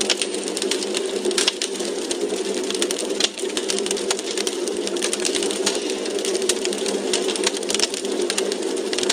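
Wood fire crackling in a fireplace: dense, irregular sharp pops and snaps over a steady low rushing.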